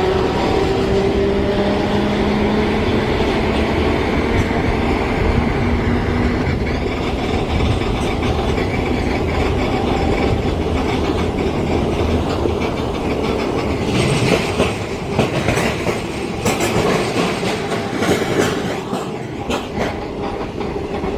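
A train passing close by with a steady rolling rumble. A few held tones fade out in the first seconds, and from about two-thirds of the way through the wheels clack over the rail joints.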